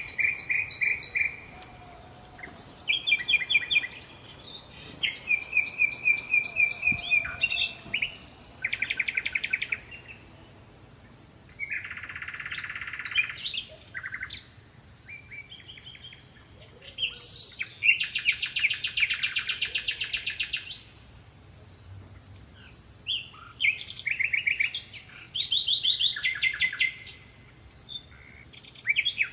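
A songbird singing: a run of phrases, each one to three seconds long, made of fast trills and rapidly repeated notes at changing pitches, with short pauses between them. A faint steady high tone runs underneath.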